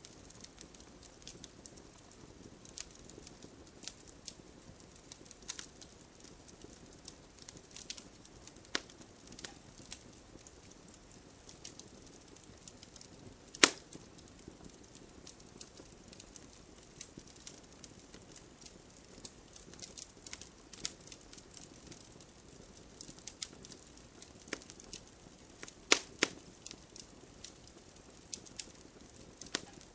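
Wood fire crackling in a fireplace: a low soft hiss with irregular sharp pops and snaps, the loudest about halfway through and a quick cluster a few seconds before the end.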